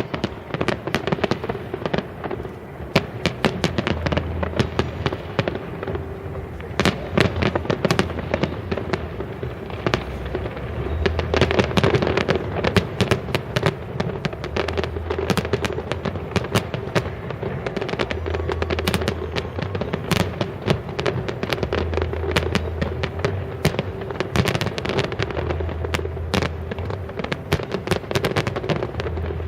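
Fireworks display: a dense, continuous barrage of bangs and crackles from shells bursting in rapid succession.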